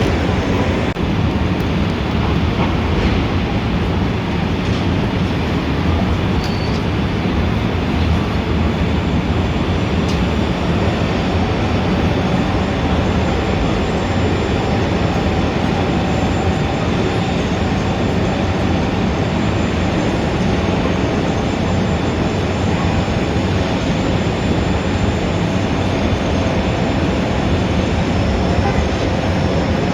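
Steady, dense city traffic din: a continuous rumble with no single event standing out.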